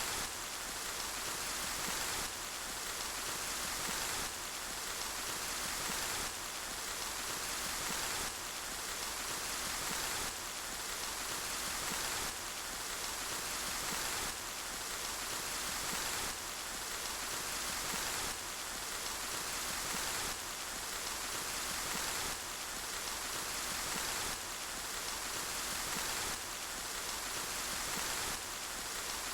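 Steady rainfall, an even hiss of many drops with most of its weight in the upper range. It repeats as a short loop, with a small jump in level about every two seconds.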